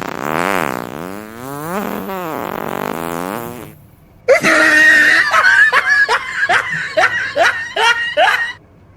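A long, drawn-out fart noise whose pitch wobbles up and down, played as a prank. A little after four seconds in comes a burst of loud laughter, about three ha's a second, lasting some four seconds.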